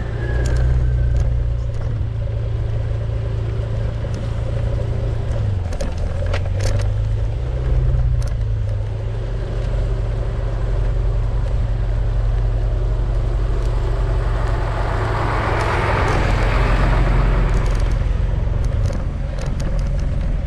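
Motor vehicle engine running steadily, its low hum shifting a little in pitch, with scattered light clicks. About fifteen seconds in, a rushing noise swells and fades over a few seconds.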